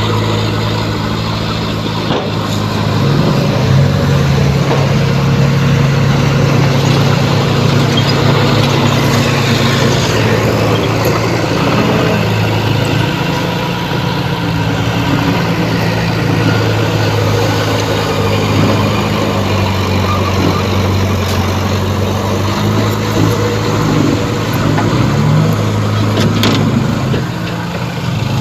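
Heavy diesel engine of a bulldozer running under load, its pitch stepping up and down as the load changes, with a sharp knock near the end.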